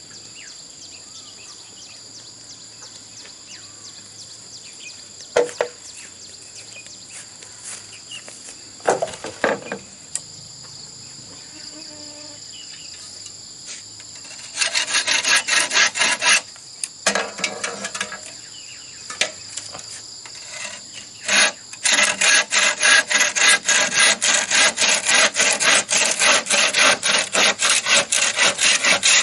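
Insects chirr steadily, with a few scattered knocks. About halfway through, a hand tool starts working bamboo in quick, regular rasping strokes, about four a second. These strokes pause briefly, then carry on as the loudest sound.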